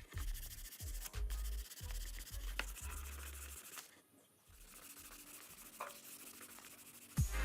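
Hand sanding with sandpaper: a rasping, rubbing noise with short strokes, broken by a brief pause about halfway through, over low background music.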